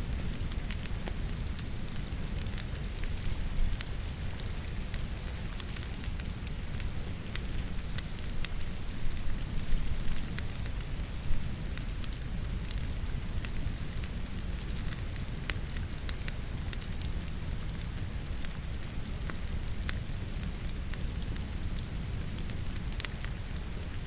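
Wood logs burning in a fireplace, crackling with many small clicks and a few louder pops, the loudest about eleven seconds in, over the steady patter of falling rain.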